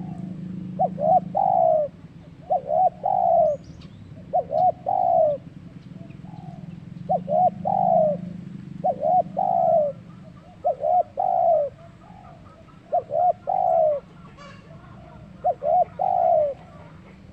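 Zebra dove (perkutut) cooing: about eight phrases, each two short quick notes followed by a longer falling note, repeated every couple of seconds.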